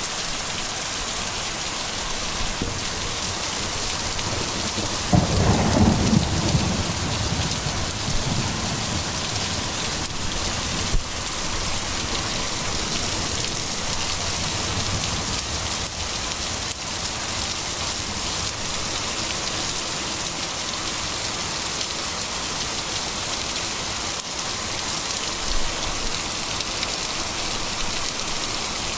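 Heavy rain pouring steadily. About five seconds in a thunderclap breaks in with a low rumble that fades over two or three seconds, and a single sharp tap sounds about eleven seconds in.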